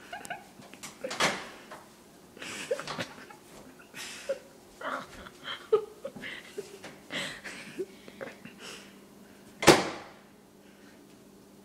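Knocks and clatter of household things being handled and set down, a series of short sounds in a small room, with one sharp, loud knock like a door or cupboard shutting about ten seconds in.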